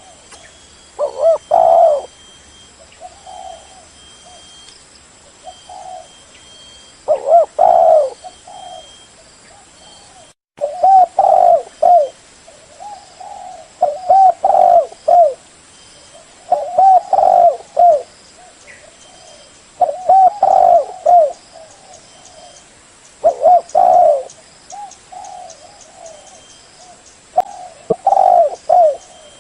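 Spotted dove cooing over and over: loud phrases of a few low coos come every few seconds, with fainter cooing between them. The sound cuts out briefly about ten seconds in.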